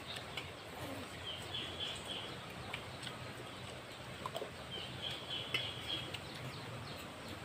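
Faint outdoor background: a bird's high trill repeating about every three seconds, with a few soft clicks of spoons and hands on plates.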